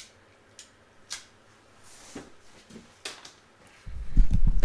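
Light clicks and rustles of wire connectors and thin wires being handled, a few seconds apart. Near the end a much louder, uneven low rumble starts.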